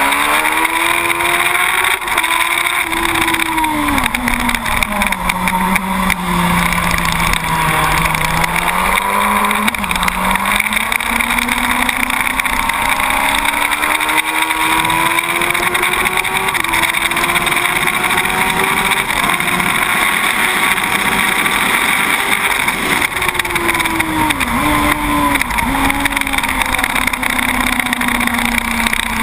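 2006 Yamaha YZF-R1 SP inline-four sport bike engine under hard riding on track, its note climbing under throttle, falling away about four to six seconds in as it slows for a corner, then pulling up again and holding high. Near the end the note dips twice in quick succession as it changes gear, over a constant rush of wind on the bike-mounted microphone.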